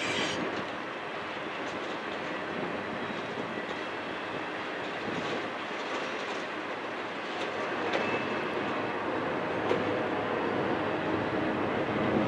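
Intermodal freight train cars rolling past, steel wheels on the rails making a steady rumble, with a couple of sharp clicks about two-thirds of the way through.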